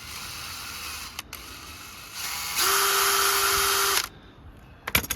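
Electric drill with a 6 mm bit opening up the holes in a gasket: a quieter stretch, then a louder run at steady speed for about a second and a half that stops suddenly. A couple of sharp clicks follow near the end.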